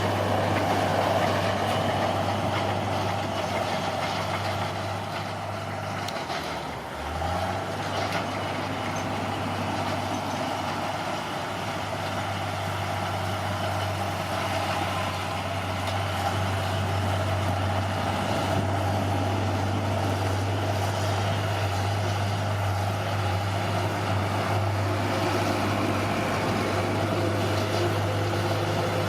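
Bulldozer's diesel engine running steadily under load, its engine note sagging briefly about seven seconds in and then picking back up.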